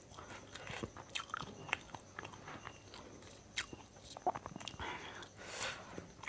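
Faint mouth sounds of someone chewing fuchka (pani puri), with scattered small crunches and clicks of the crisp shells.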